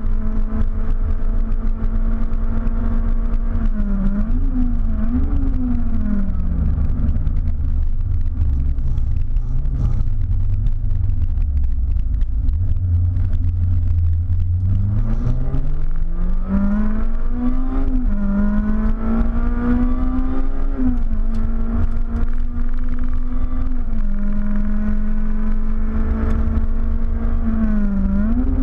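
Honda K20 inline-four in a stripped Civic race car at full load on track, heard from inside the cabin. The engine note sits high, then falls away about a third of the way in as the car brakes and runs at low revs through a slow corner, then climbs hard again with two quick drops in pitch for upshifts.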